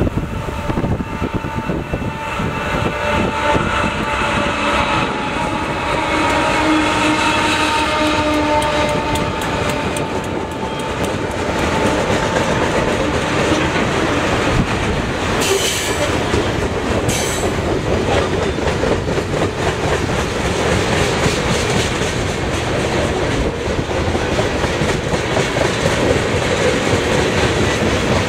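Canadian Pacific freight train passing close by. The diesel locomotives run past with a steady engine drone and tones for roughly the first ten seconds, then loaded grain hoppers and tank cars roll by with wheels clicking over the rail joints. There are a couple of sharp metallic clanks about halfway through.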